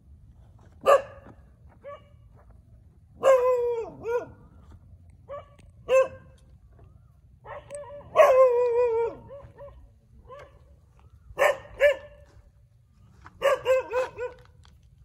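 Several dogs barking on and off: sharp single barks mixed with longer drawn-out barks that fall in pitch, a quick run of about four barks near the end, and fainter barks from further-off dogs in between, over a low steady rumble.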